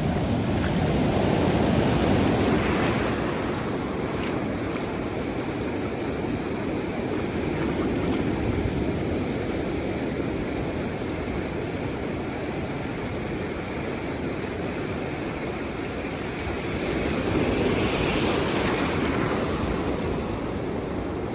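Ocean surf breaking and washing up the beach, swelling louder twice, at the start and near the end.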